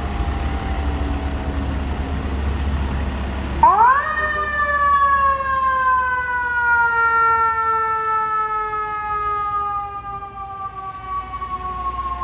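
Fire truck siren winding down over the rumble of the truck. Then a second siren winds up quickly and slowly winds down again.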